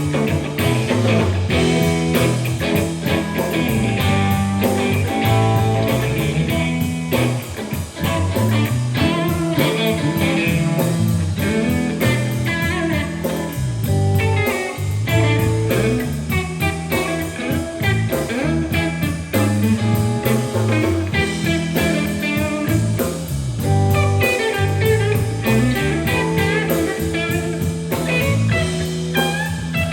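Live blues band playing an instrumental passage, a guitar carrying the lead over a steady, repeating bass line and drums.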